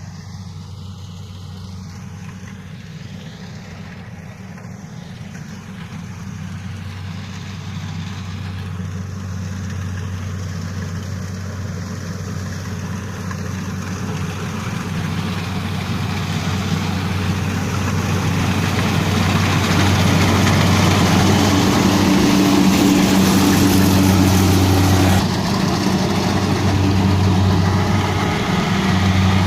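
Kubota DC70 rice combine harvester running: a steady low diesel engine hum under a rising mechanical hiss and rattle, growing steadily louder over about twenty seconds, then easing slightly near the end.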